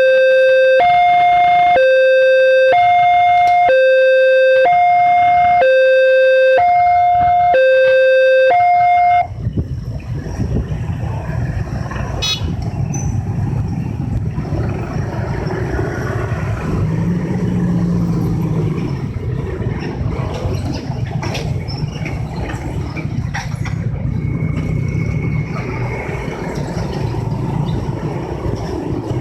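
Railway level-crossing warning alarm sounding two alternating electronic tones, about one a second. It cuts off suddenly after about nine seconds, giving way to the steady rumble of passing road vehicles with a few clicks.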